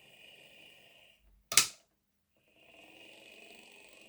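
Heljan Class 23 OO gauge model locomotive's motor and gearbox running with a whirring, growling noise, stopping for a moment and starting again; a sharp click comes in the gap, about one and a half seconds in. The noise is an unwanted one that the modeller goes on to put down to the motor not sitting centred.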